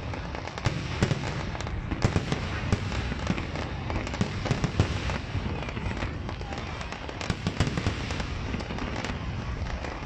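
Aerial fireworks display: a continuous run of irregular bangs and pops from bursting shells, many overlapping. The loudest bang comes near the middle.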